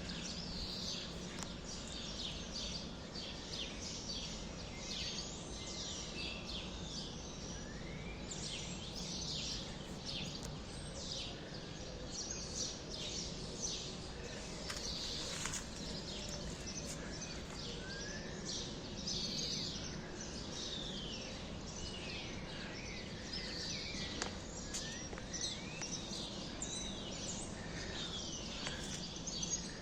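A flock of small birds chirping together in a dense, continuous chorus of short high chirps and quick trills, over a steady low background hum.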